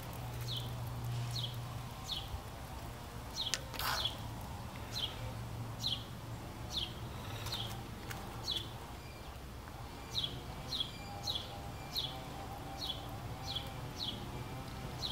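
A bird calling, repeating a short, high, down-slurred chirp about once a second, over a low steady hum.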